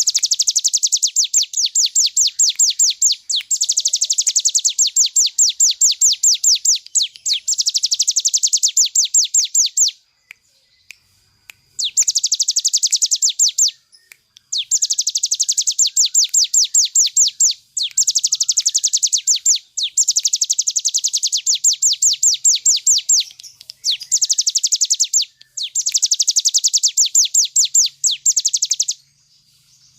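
Ciblek gunung singing its fast, drill-like 'ngebren' song: loud, high rattling trills of rapidly repeated notes in bursts of a few seconds each, separated by short pauses.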